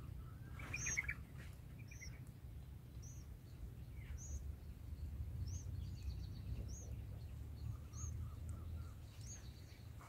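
Small bird chirping: a short, high note repeated about every second, with a brief flurry of calls about a second in and a quick run of about five lower notes near the end. Under it runs a steady low rumble.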